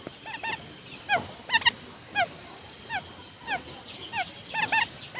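Quail calling: a rapid series of short, sharply falling whistled notes, some given in quick pairs, about two calls a second.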